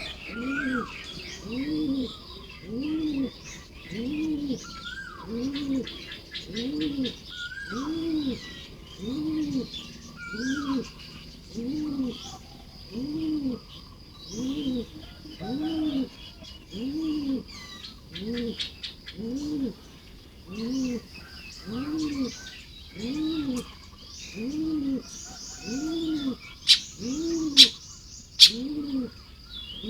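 A deep, dove-like coo repeated steadily about one and a half times a second, the loudest sound, over high chattering chirps and buzzy trills from baya weavers at their nests. Three sharp clicks come near the end.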